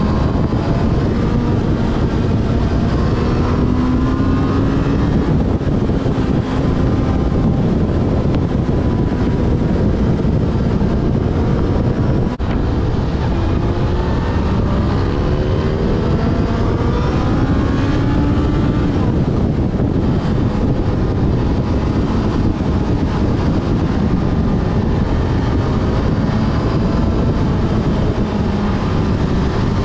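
Yamaha Fazer FZ6S's inline-four engine running on the move, its revs rising and falling through the throttle and gear changes, with wind rushing over the microphone.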